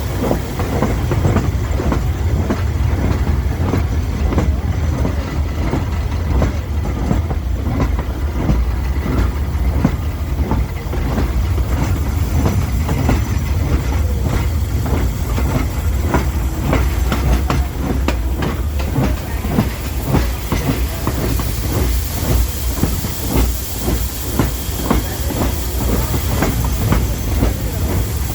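Vintage railway train running: a steady low rumble with rapid wheel clicks over the rail joints. A high hiss builds over the last few seconds.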